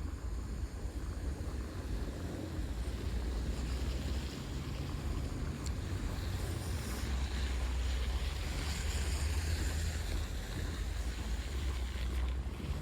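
Wind buffeting the microphone in a snowstorm: a steady, ragged low rumble with a rushing hiss that swells about halfway through.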